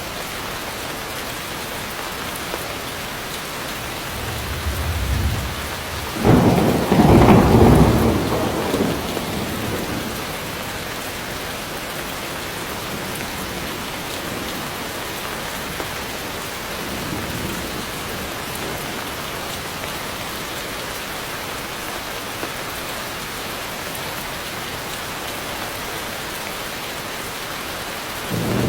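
Heavy rain falling steadily, with a loud thunderclap about six seconds in that rumbles away over the next few seconds. Fainter thunder rumbles follow later, one more starting near the end.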